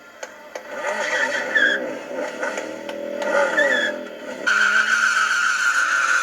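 Motorcycle engine revving up and down during stunt riding, with tyre squeal. About four and a half seconds in, the sound changes abruptly to a steady, high tyre-squeal-like screech over the engine.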